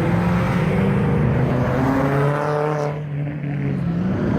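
Car engine revving, held at high revs and then falling off sharply about three seconds in before picking up again.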